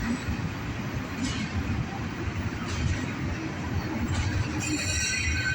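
Southbound CSX intermodal freight train's single-stack container cars rolling past with a steady rumble and a clack every second and a half or so. A high wheel squeal starts near the end.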